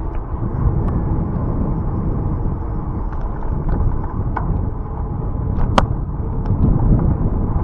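Wind buffeting the microphone on a moving bicycle, a steady low rumble, with a few sharp clicks or rattles scattered through it, the loudest about three quarters of the way through.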